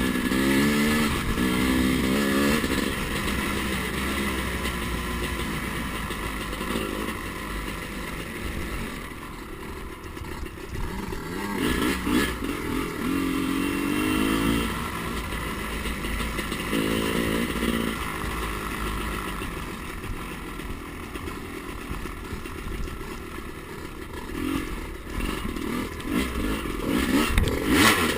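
Two-stroke dirt bike engine revving up and dropping back several times as it rides the track, louder and fainter by turns.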